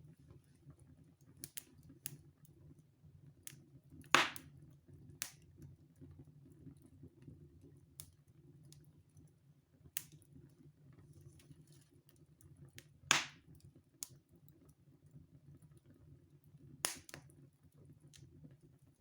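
Fire burning in a fireplace: a low, steady rustle of flame with scattered sharp crackles and pops, the three loudest about four, thirteen and seventeen seconds in.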